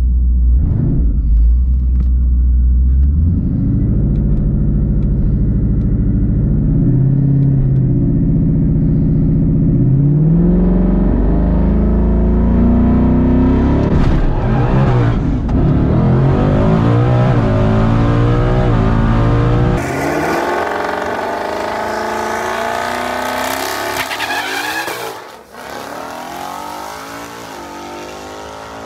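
Twin-turbo 5.0 Coyote V8 of a 2019 Mustang GT, heard inside the cabin, held steady on the transbrake at about 4,000 rpm for a few seconds. It then launches and pulls hard down the drag strip, its pitch climbing and dropping again at each upshift. About two-thirds of the way in, the sound switches to the same engine heard from far off beside the track, fainter.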